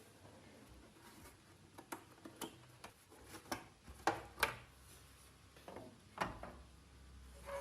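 A string of irregular light clicks and taps, the two loudest close together a little past the middle.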